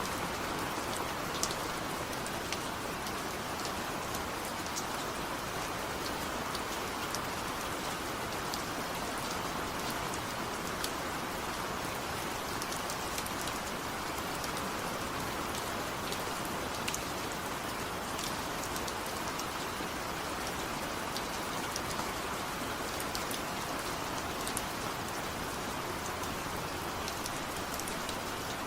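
Steady rain falling, a continuous even hiss with scattered sharp drop ticks on a surface.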